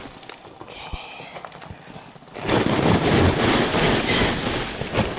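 Snow being knocked off a growhouse's plastic-covered roof: a few light knocks, then a loud rushing slide of snow starting about halfway through.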